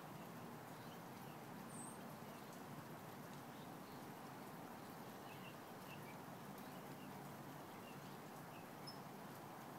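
Faint steady outdoor ambience of light rain, with scattered faint high bird chirps in the distance.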